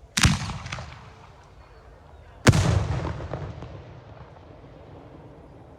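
Two loud firework bangs from Portuguese festival rockets (foguetes), a little over two seconds apart. Each bang echoes away slowly, with a few smaller cracks in its tail.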